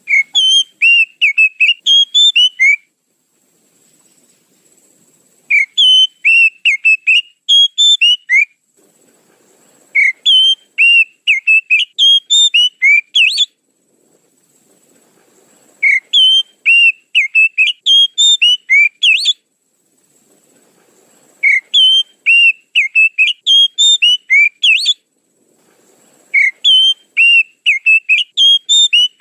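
Oriental magpie-robin (kacer) song played as a bird-trapping lure: a fast phrase of rapid whistled notes lasting about three seconds, repeated six times with short gaps. A faint steady high tone runs underneath.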